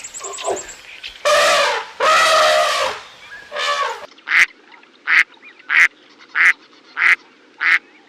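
Waterfowl calling: a few longer honking calls, then from about four seconds in a run of short, evenly spaced quacks, roughly one and a half a second.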